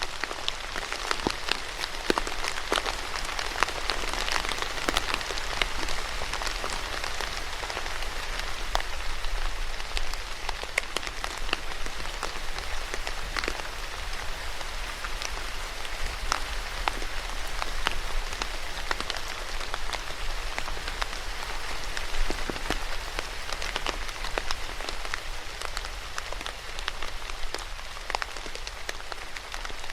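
Steady rain falling on a hard surface, a continuous hiss dotted with many distinct drop ticks and patters.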